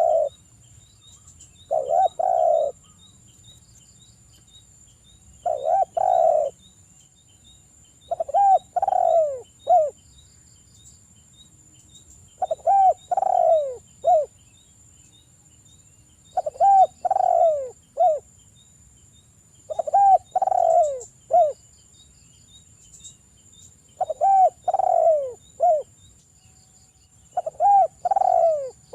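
Derkuku (spotted dove) cooing over and over, a phrase of a few deep, falling coos about every three to four seconds.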